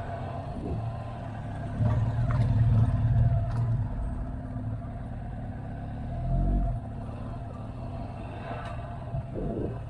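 Motorcycle engine running steadily while riding, louder for about two seconds a couple of seconds in, with a few short rises in pitch.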